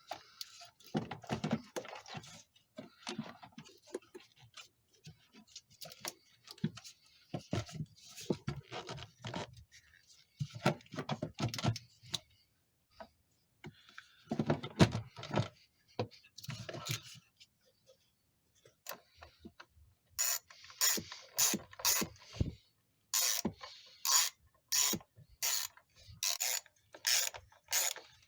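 Hand-tool work on a car: irregular scraping and knocking of parts being handled, then, about two-thirds of the way in, a ratchet wrench clicking in quick, even strokes.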